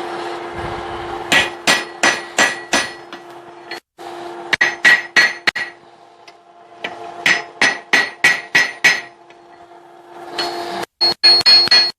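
Hand hammer forging hot steel on an anvil: four bursts of about five or six blows each, roughly three a second, with a metallic ring that carries on between the blows.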